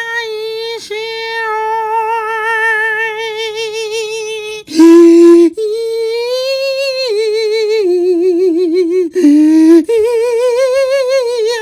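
A high voice singing or humming long, wavering notes, held with a strong vibrato. It drops twice to short, louder, lower notes, about halfway through and again near the end.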